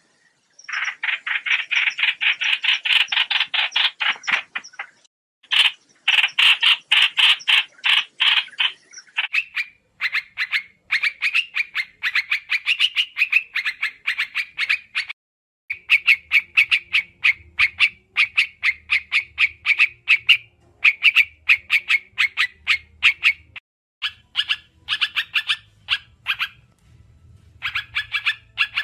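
Trao trảo bird calling: rapid runs of short repeated chattering notes, many per second, in bouts lasting a few seconds with brief pauses between them, as played in a bird-trapping lure recording.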